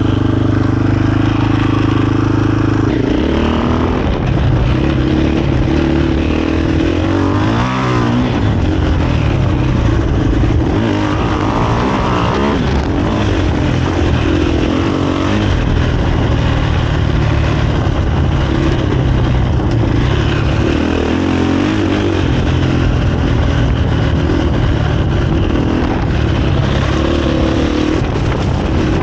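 KTM 500 EXC-F dirt bike's single-cylinder four-stroke engine, running through a Graves exhaust with its insert fitted, under way on a trail. The engine note rises and falls several times as the throttle is opened and rolled off.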